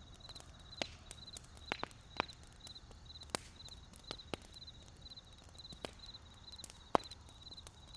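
Burning wood in a campfire crackling, with sharp irregular pops, the loudest about seven seconds in. Behind it a high chirp repeats steadily about twice a second.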